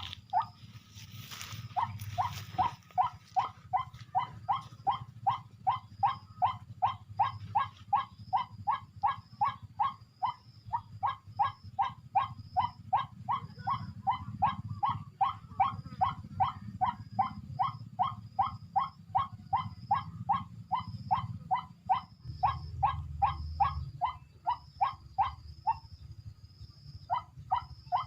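A bird call repeated rapidly and evenly, about two to three short notes a second, breaking off briefly near the end and then starting again, over a low steady hum.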